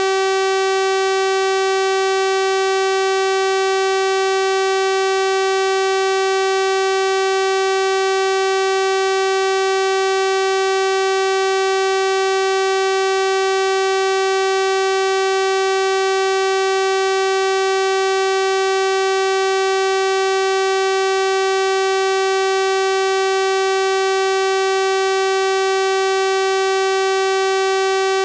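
Steady electronic sawtooth-wave test tone at 384 Hz, held at constant pitch and level, with a bright buzzy edge from its full series of overtones.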